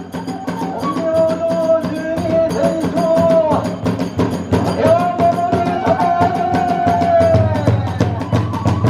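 Hiroshima kagura festival music: taiko drums beat a fast, steady rhythm while a bamboo flute plays two long held notes over them.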